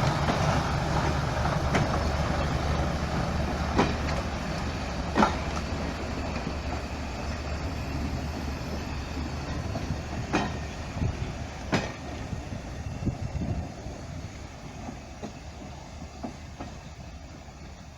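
A train moving away and fading out, its low steady running hum dying down. Occasional sharp clicks from the wheels come over the rail joints.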